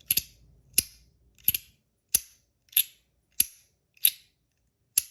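Compoform Astronaut Coin fidget slider being slid back and forth, snapping into its end positions with a sharp, loud click about every two-thirds of a second, eight clicks in all.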